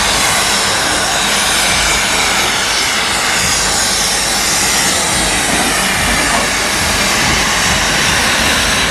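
Steam locomotive at the platform, a loud steady hiss of escaping steam.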